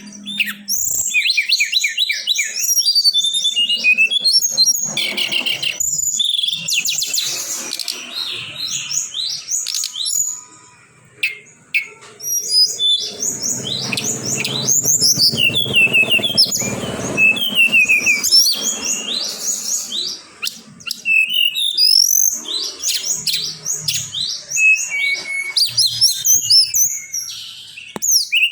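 A tledekan songbird singing a fast, varied run of sharp chirps and sweeping whistled notes, the kind of recording played as a lure to get a reluctant caged bird to sing. The song pauses briefly near the middle, then picks up again.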